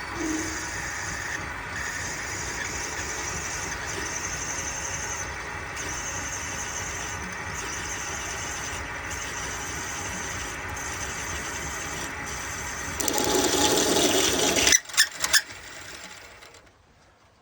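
Metal lathe running steadily with a twist drill cutting into a small brass or iron engine part, with a high whine over the motor. Near the end the cutting gets louder for about two seconds. Then the machine stops abruptly with a few sharp knocks.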